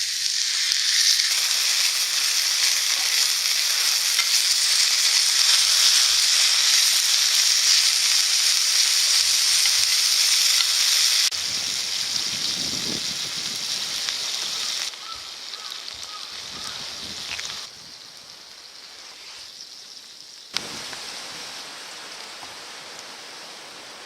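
Chicken sizzling in a frying pan over a campfire: a loud, steady hiss that drops in steps after about eleven seconds and is much fainter in the second half, with one sharp click about twenty seconds in.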